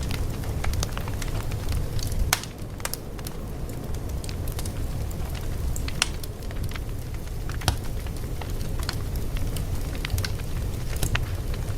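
Wood fire crackling: a steady low rumble of flames with sharp pops and snaps at irregular intervals.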